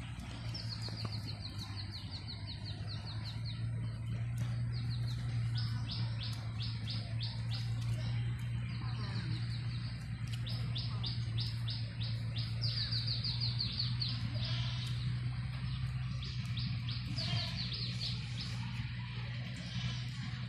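Small birds chirping in repeated quick runs of short, falling notes, over a steady low hum.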